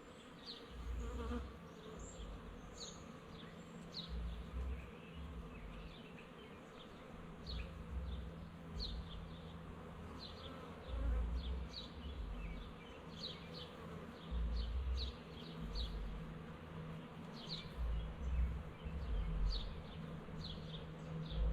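Honeybee swarm buzzing, a steady low hum, with intermittent low rumbles and short high chirps over it.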